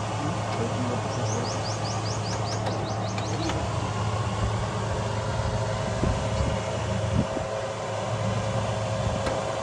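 A steady low machine hum, with a bird chirping in a fast run of high repeated calls about a second in. A few dull knocks come midway.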